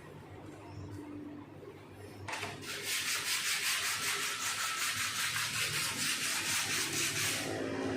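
Sanding body filler on a car panel: a rasping hiss in quick, even strokes, about five or six a second. It starts about two seconds in and stops shortly before the end.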